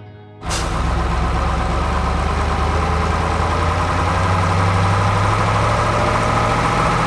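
Heavy diesel engine running steadily, a low hum with a rough, noisy clatter over it; it starts abruptly about half a second in.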